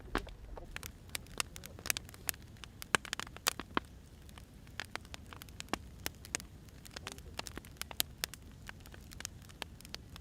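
Wood fire crackling, with irregular sharp pops that come thickest in the first few seconds, over a low steady rumble.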